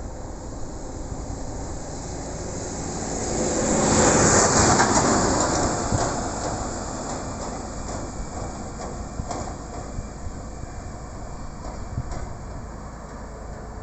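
1954 Bedford fire engine driving past: its running and rattle swell to a peak about four seconds in and then fade away.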